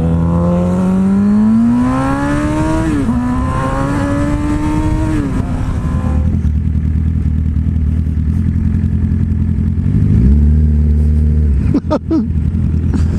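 Motorcycle engine accelerating through the gears: its pitch climbs, drops at a shift about three seconds in, climbs again, then settles to a steady lower cruise before stepping up again about ten seconds in.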